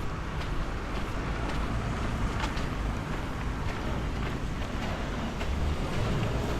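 Street traffic in the rain: a motor vehicle's low engine rumble, growing louder near the end, over a steady hiss.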